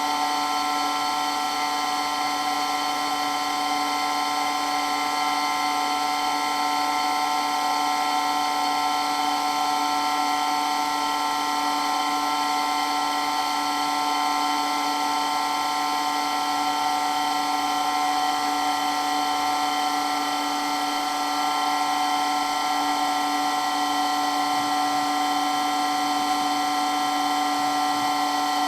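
Electric water pump running steadily with an unchanging whine made of several steady tones.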